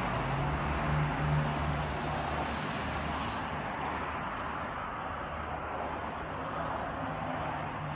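Steady traffic noise with a low engine hum that is loudest about a second in, then slowly fades.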